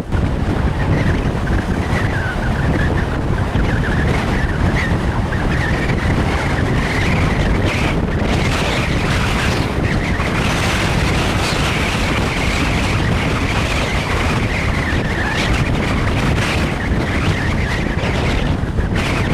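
Storm wind buffeting the microphone in a steady low rumble, with a high whistle that wavers in pitch above it.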